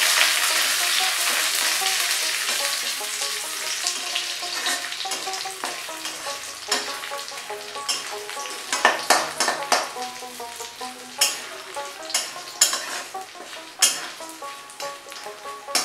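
Cashews, raisins, curry leaves, dried red chillies and whole spices sizzling in hot oil and ghee in a kadai, stirred with a metal spatula. The sizzle is strongest at first and dies down, and in the second half the spatula scrapes and clicks against the pan.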